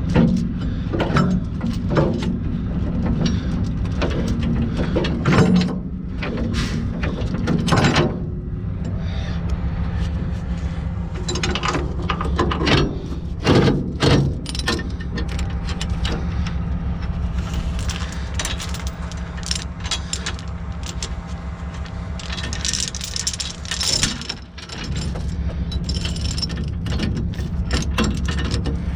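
Heavy truck diesel engine idling steadily, with repeated metallic clinks, clanks and rattles of work on the rig over it.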